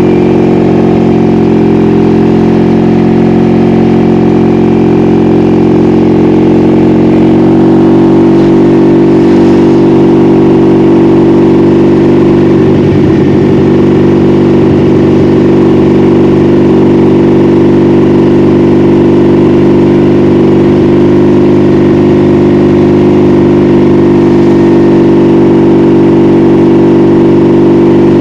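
Honda Magna V45's 750 cc V4 engine running steadily, its note shifting slightly about seven and a half seconds in.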